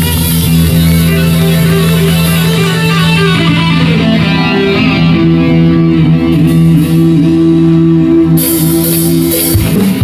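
Live rock band playing, an electric guitar over steady held bass notes.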